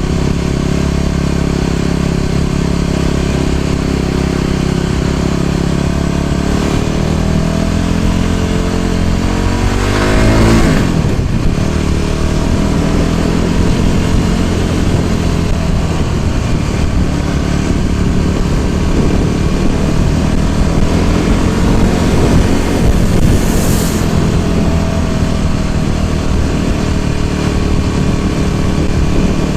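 Small motor scooter engine running steadily under way, its pitch climbing as it speeds up about a third of the way in. A brief whoosh passes about ten seconds in, and a short hiss comes near the end.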